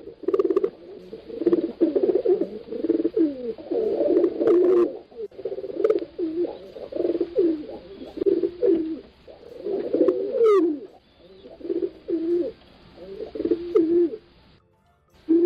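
Several pigeons cooing, their low coos overlapping almost without a break, with a short pause near the end. One brief higher chirp about ten and a half seconds in.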